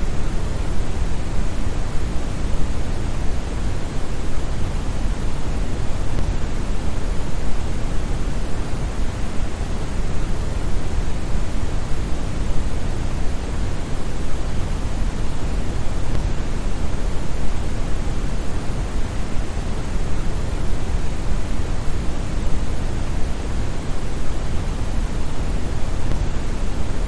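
Synthetic brown noise: a steady, deep hiss with most of its energy in the bass and little in the highs.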